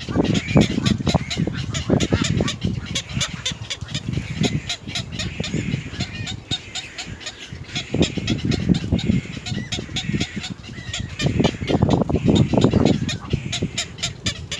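Birds calling at a nest, adults and young together, with a rapid run of sharp clicks throughout.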